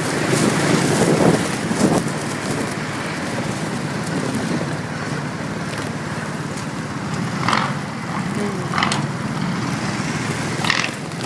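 Motorcycle on the move: steady wind rush over the microphone with road and engine noise underneath, and a few short, louder gusts in the second half.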